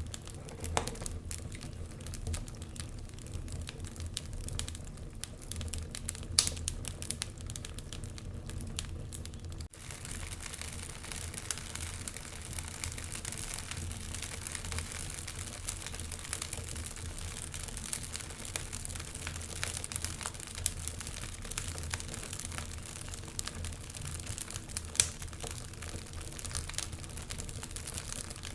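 Wood fire crackling in a fireplace: frequent sharp pops and snaps over a low steady rumble of the flames, with two louder pops, one about six seconds in and one near the end.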